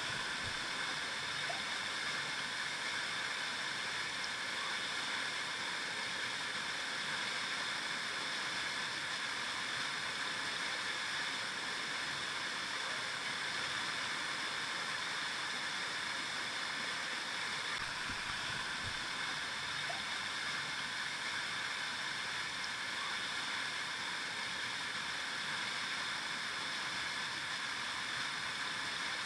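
River water flowing, a steady rushing noise that does not break or change.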